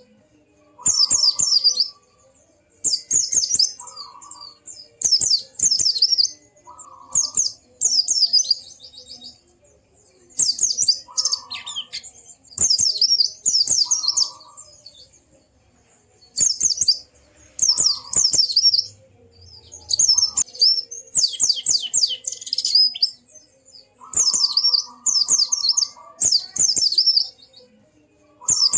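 White-eye (pleci) singing: short bursts of rapid, high twittering, each about a second long, repeated with brief pauses between them.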